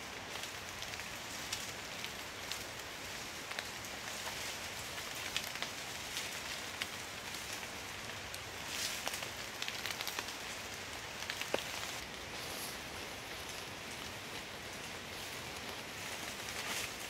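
Heavy rain falling steadily: a dense hiss of rain with individual drops ticking sharply close by.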